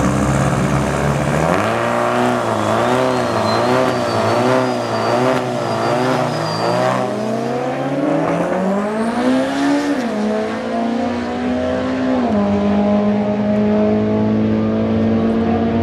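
Eagle Talon drag car launching off the line and accelerating down the strip, its engine note wavering at first, then climbing through the gears with a sudden drop at each shift about ten and twelve seconds in.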